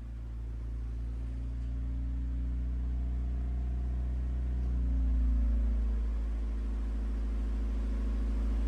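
Mazda Miata four-cylinder engine running on a chassis dyno, a steady low drone that builds slightly toward about five seconds in and then eases back.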